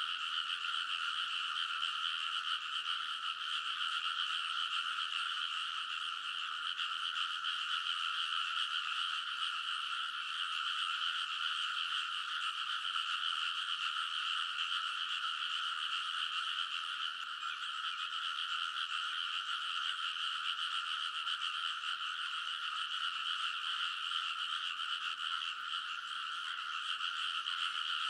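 A dense chorus of many frogs calling together in rice paddies, their overlapping croaks merging into one continuous, unbroken din.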